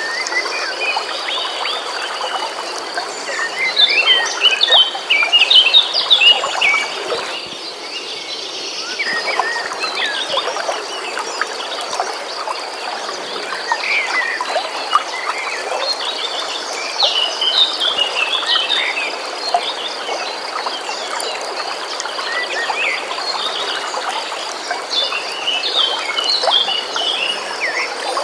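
Songbirds singing in bursts of quick, varied phrases over a steady stream of running water, with a continuous high-pitched pulsing trill underneath. The birdsong comes in three spells, the loudest a few seconds in.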